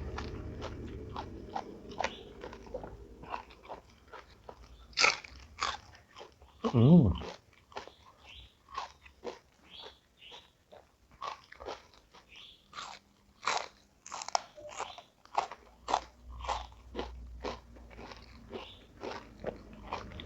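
Crunchy food being bitten and chewed close to the microphone, with irregular sharp crunches throughout. A brief, loud, wavering pitched sound comes about seven seconds in.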